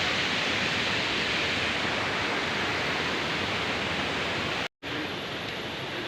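Waterfall's rushing water, a steady hiss-like roar. About three-quarters of the way through it cuts out for a moment and comes back quieter.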